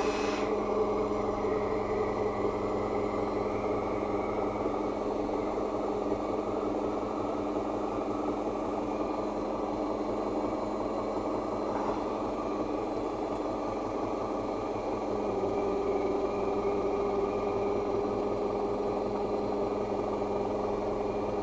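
MTZ-82.1 tractor's four-cylinder diesel idling steadily just after a cold start in −15 °C frost.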